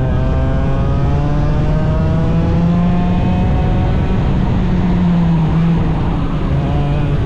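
A 100cc racing engine accelerating, its pitch climbing steadily for about four seconds and then holding at high revs.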